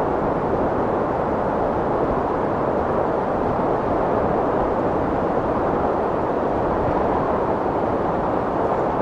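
Strong wind blowing as a steady, even rush.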